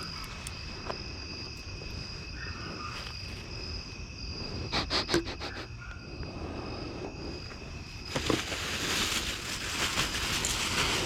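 Insects, crickets, trilling steadily on two high pitches. A few sharp clicks come about five seconds in, and from about eight seconds there is louder rustling and crinkling of trash being handled.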